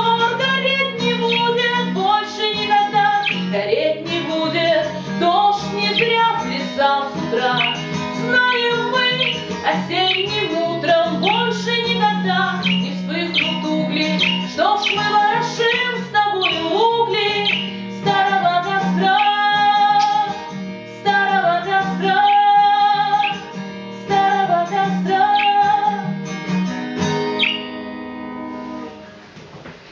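Acoustic guitar plucked and strummed, playing the closing bars of a song and fading out over the last couple of seconds.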